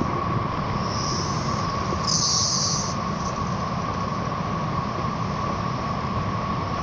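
Steady rush of a river roaring, with cicadas singing over it: a constant high whine and short buzzing calls, the loudest about two seconds in.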